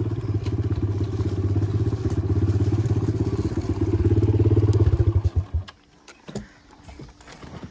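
Dirt bike engine idling, rising slightly in level, then shut off about five seconds in, stuttering briefly as it stops. A few faint clicks follow.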